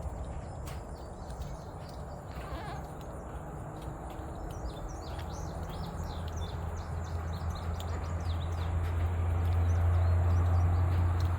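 Small birds chirping in quick, scattered calls over a steady low hum that grows louder near the end.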